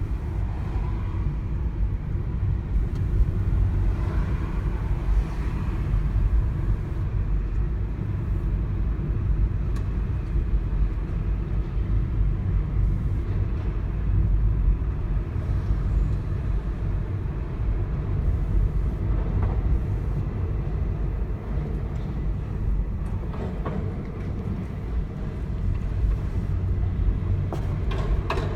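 Steady low rumble of a car being driven, with a Keihan Keishin Line train running alongside on the street.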